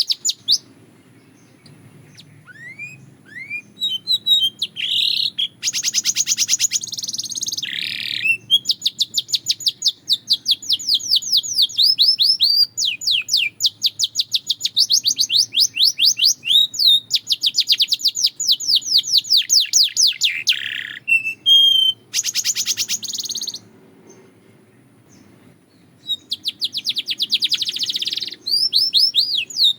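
A Belgian canary singing: long, fast trills of rapidly repeated sweeping notes, broken by short pauses, with a quieter gap near the start and another about two-thirds of the way through.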